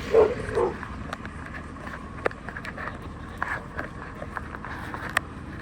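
Garbage truck running, a steady low engine sound, with scattered sharp knocks and clanks.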